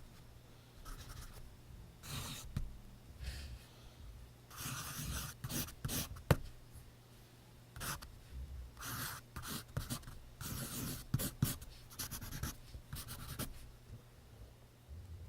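Pencil scratching across paper in short, irregular strokes, with a sharp tap about six seconds in.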